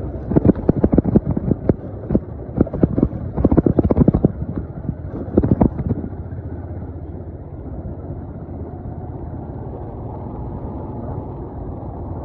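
Motorbike on the move: engine and road noise, with a quick run of sharp knocks and rattles for about the first half, then settling into a steady low rumble.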